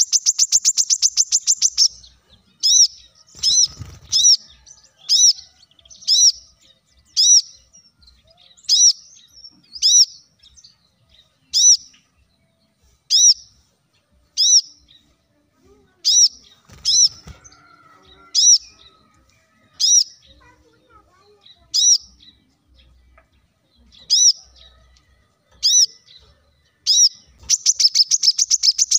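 Brown-throated sunbird (kolibri kelapa) singing: a series of sharp, high chirps about one a second, with a fast trill at the start and again near the end.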